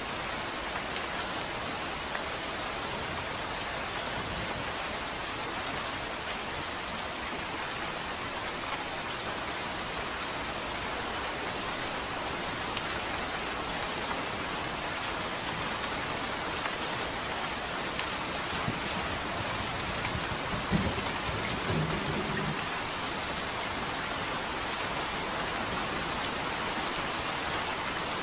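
Steady rain falling, a continuous hiss with scattered droplet ticks. About 21 seconds in, a brief low rumble of thunder rises over it and fades within a couple of seconds.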